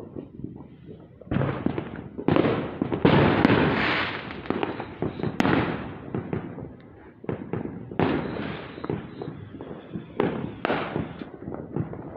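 A rapid run of repeated bangs and crackling pops that merges into a continuous crackling barrage from about three to five and a half seconds in, followed by further clusters of quick bangs. The recorder doubts that these are fireworks.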